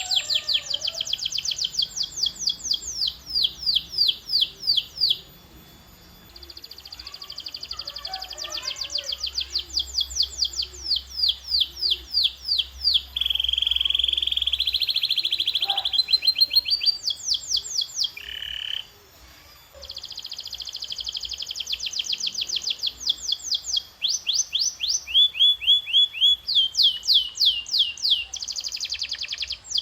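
Domestic canary singing a rolling song: phrases of fast, rapidly repeated high notes, each phrase a few seconds long before switching to the next. There is a held buzzy note about halfway through and short breaks about six seconds in and near nineteen seconds.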